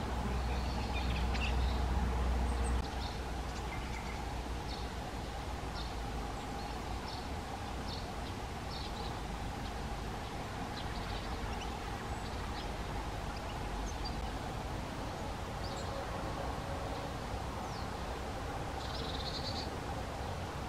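Eurasian blue tit calling: short, high-pitched call notes scattered throughout, with a brief trill near the end. A steady low rumble runs underneath and is heavier for the first three seconds.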